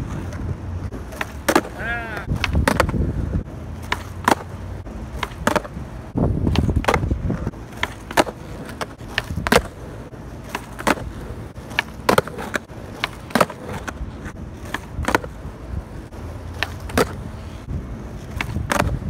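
Skateboard nollies repeated on rough asphalt: sharp pops of the board's nose striking the ground and clacking landings, roughly one every second or so. Between them the wheels rumble as they roll on the street, and there is a short squeak about two seconds in.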